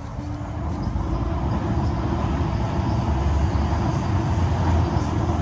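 Rumble of a passing train, building over the first second and then holding steady and loud.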